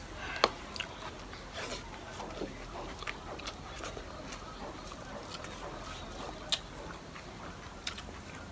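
Close-up eating sounds of egg curry being eaten: soft wet chewing and mouth smacks with scattered sharp clicks, the loudest click about half a second in and another about six and a half seconds in.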